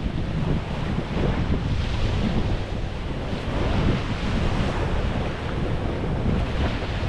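Wind buffeting the microphone over the steady wash of small waves on a beach.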